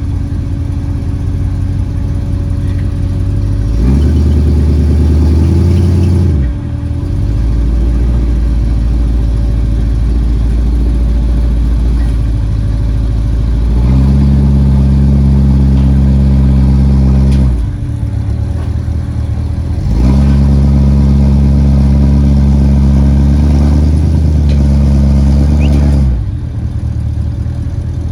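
Car engine running at idle and revved three times, each time held at raised revs for a few seconds before dropping back to idle; the third and longest rev comes in the second half.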